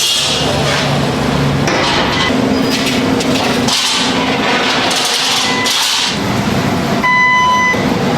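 Metal-fabrication workshop noise: hammering and knocking on steel over a steady noisy background, with a brief ringing tone about seven seconds in.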